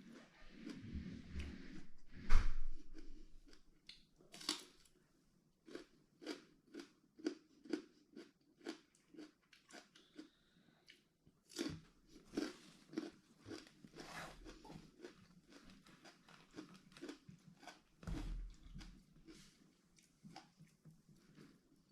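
A person chewing crunchy raw vegetables close to the microphone: irregular crisp crunches and mouth sounds, with a few louder bites.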